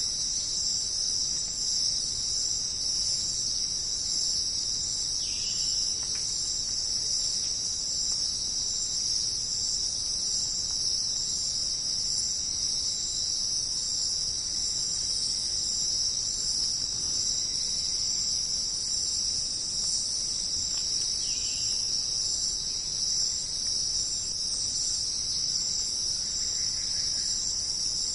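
A dense, steady chorus of jungle insects, a continuous high-pitched buzzing and trilling with no break. A few faint short calls rise above it now and then.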